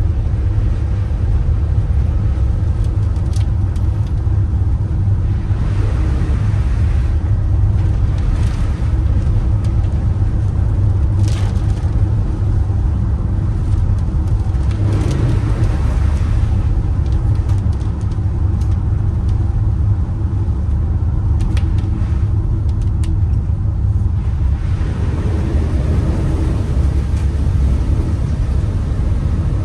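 Steady low rumble of a vehicle driving, with a few brief swells of hissing noise.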